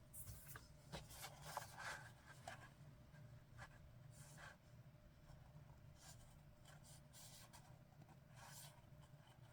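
Faint scratching and rubbing on paper as gold is applied to a journal page, with a few light rustles of the paper being handled.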